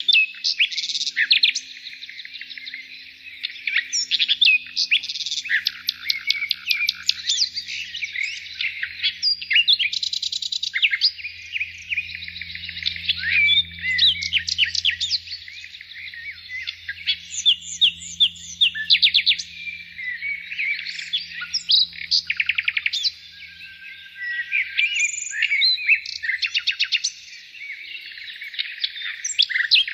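Several small birds chirping and twittering without a break, their quick calls and trills overlapping.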